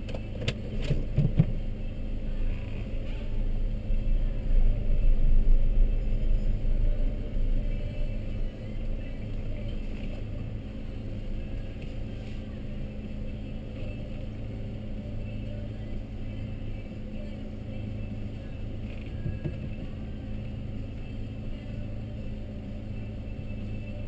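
Car engine idling, heard from inside the cabin, with a louder low rumble for a few seconds about four seconds in as the car creeps forward. A few sharp knocks near the start.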